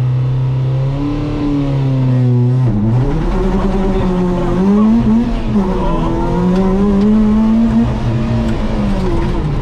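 Ford Fiesta ST rally car engine, heard from inside the cabin: held at steady raised revs for about a second, then revved and pulled away hard. Its pitch climbs and drops sharply several times as it accelerates up through the gears.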